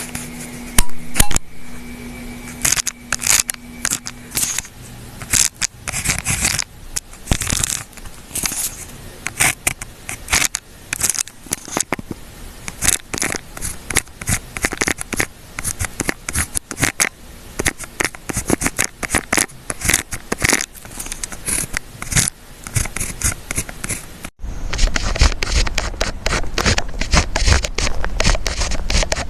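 Writing and paper-handling at a study desk: a dense, irregular run of short scratches and clicks on paper. About 24 seconds in it switches abruptly to a different recording with more low thumps.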